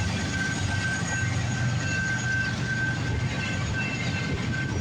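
CN freight train rolling past close by, its locomotives just gone by and its cars following: a steady rumble with thin high ringing tones that come and go.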